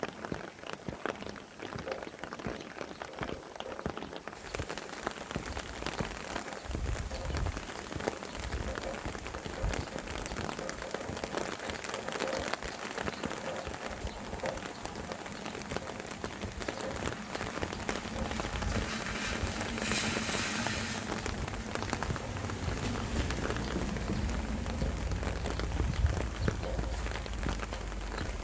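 Steady rain falling, with a constant patter of individual drops. From about a quarter of the way in, a low wind rumble builds under it and grows stronger toward the end.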